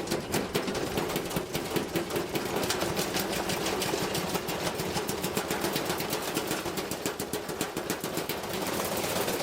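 Washing machine shaking and clattering hard, a fast run of knocks many times a second over a steady mechanical hum.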